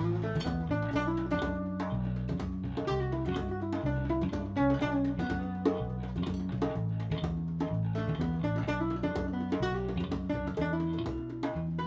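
Acoustic guitar picking a melody of short plucked notes over a bass guitar playing sustained low notes: an instrumental passage of a slow acoustic song.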